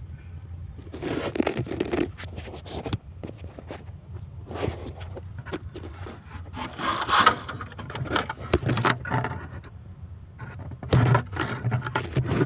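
Bursts of scraping and rattling, with clusters of clicks and knocks, coming and going several times over a low steady hum.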